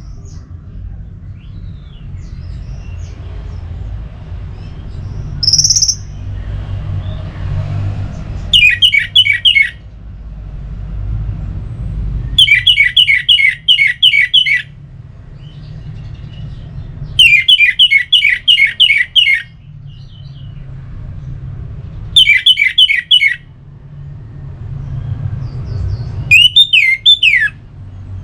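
A songbird calling in five bursts of rapid, repeated, down-slurred high notes, about four notes a second, each burst lasting one to two seconds with a few seconds between them. A steady low rumble runs underneath.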